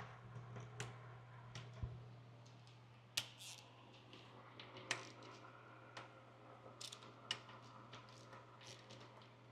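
Faint scattered clicks and light clinks of tools or parts being handled, irregular and about a second apart, over a steady low hum.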